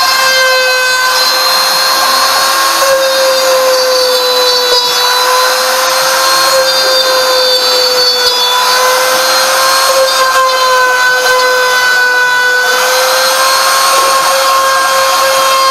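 CNC router spindle running and cutting: a steady, loud high-pitched whine over a hiss of cutting noise, the pitch wavering slightly as it works.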